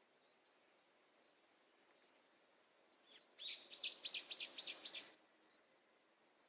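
A songbird sings a quick run of six or seven repeated high notes, each sliding down in pitch, beginning about three and a half seconds in. Faint twittering comes before it.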